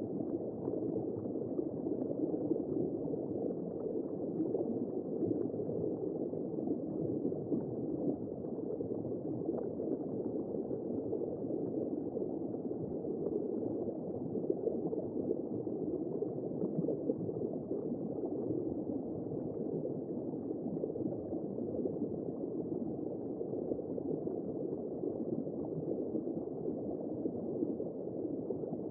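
Womb-sound white noise: a steady, muffled, low rushing whoosh like sound heard from inside the womb, with no clear beat.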